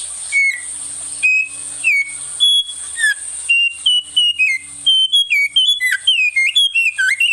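A caged songbird singing a loud, fast song of clear whistled notes, many sliding down in pitch, the notes coming quicker and closer together after the first few seconds, over a steady high-pitched hiss.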